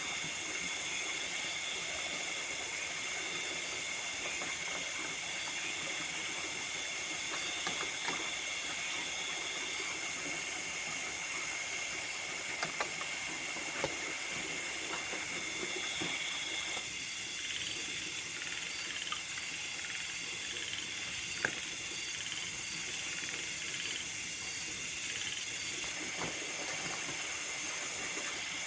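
Chorus of nocturnal rice-field insects, crickets and the like, trilling steadily at several high pitches at once. Beneath it runs a softer rushing hiss that drops away a little past halfway, with a few faint clicks.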